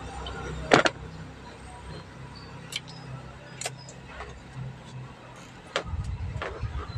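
Clicks and taps from parts and tools being handled while checking a truck's fuse: one loud sharp click about a second in, then a few lighter clicks, over a low steady hum.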